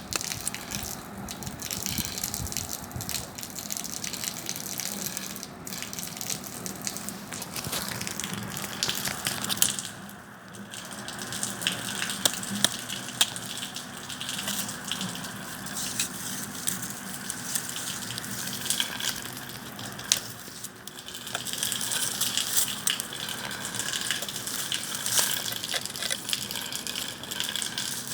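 Bonfire burning and crackling, with many sharp pops throughout.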